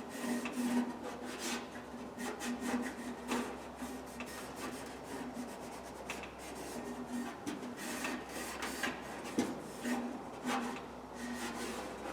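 Scrubbing on the metal drawer rails of an old Craftsman toolbox to clean off grime, in many short, uneven rubbing strokes.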